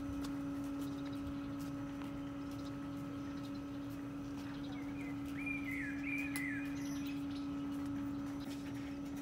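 Small songbirds twittering, with a short run of chirping notes about five to six and a half seconds in, over a steady low hum.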